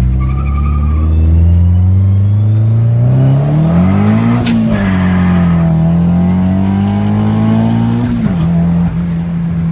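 Turbocharged Nissan SR20 four-cylinder in an S14, revved hard under boost. The revs climb to a peak about four and a half seconds in with a sharp click, fall back, climb again and drop sharply near the end to a steady lower note.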